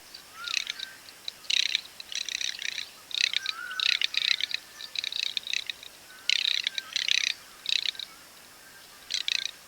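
Garganey duck calling: a series of about a dozen short, rapid rattling calls, with a longer pause near the end.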